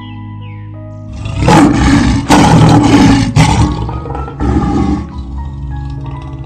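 A big cat roaring in several loud, hoarse bursts, starting about a second in and ending about five seconds in, over gentle background music.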